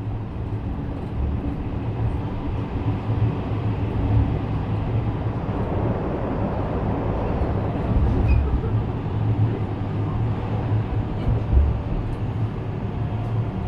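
JR West 321 series electric train running: a steady rumble of wheels on the rails with a low hum underneath, rising a little in level partway through.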